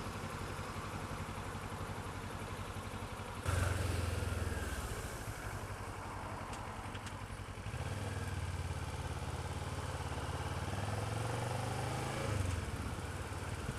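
Motorcycle engine running low and steady, picking up suddenly about three and a half seconds in, easing off, then pulling again from about eight seconds until shortly before the end.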